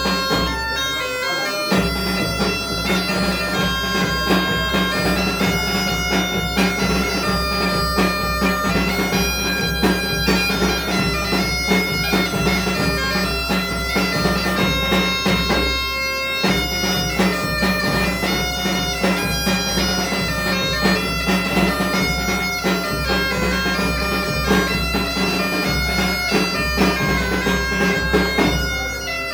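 Galician bagpipe (gaita) playing a tune over its steady drone, with a drum keeping time; the drone breaks off briefly about a second in and again about halfway through.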